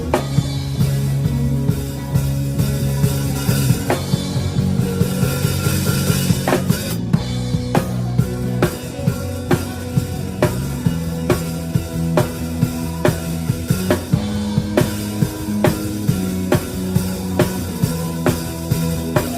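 Live band playing a worship song, with the drum kit close and loud: regular kick and snare hits over sustained bass notes.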